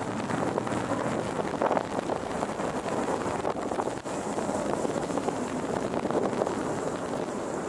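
Fighter jets flying overhead in formation: a steady, rushing jet-engine noise.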